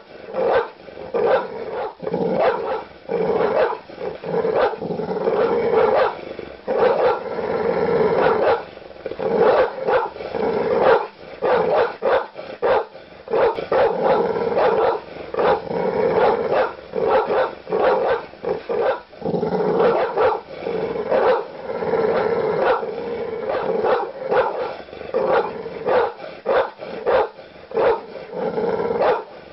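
Large dog barking aggressively: deep, loud barks repeated in quick succession, several a second.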